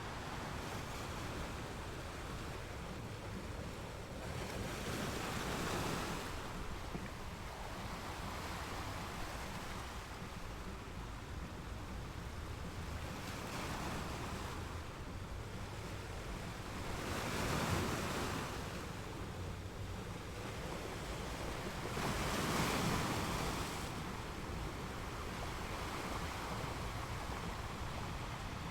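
Ocean surf on a beach: a steady wash of waves, swelling as a wave breaks about four times, loudest near the end, over a low rumble.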